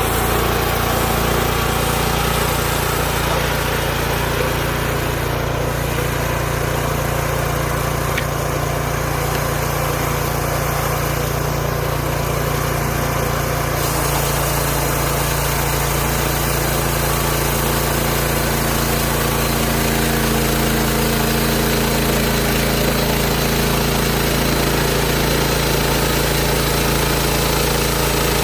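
Engine of a Hudson Homesteader 30 bandsaw sawmill running steadily. Its sound changes about halfway through.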